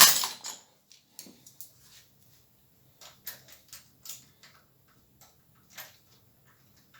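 Scattered small metallic clicks and ticks of nuts being put on studs by hand and left loose, with a louder knock right at the start.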